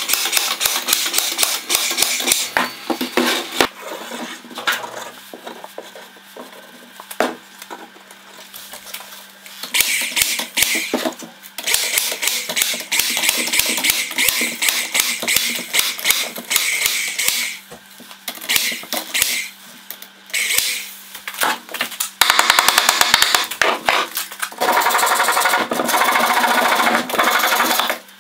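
Workshop tool noise during woodworking: a run of sharp clicks and knocks with stretches of hissing noise, and a brief fast rattle about three quarters of the way through.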